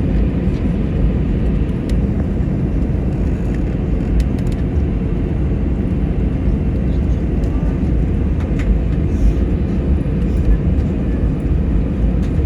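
Steady low rumble of cabin noise inside an Airbus A321-211 on the ground, its CFM56 engines running at idle while it taxis after landing. A few faint clicks sound over it.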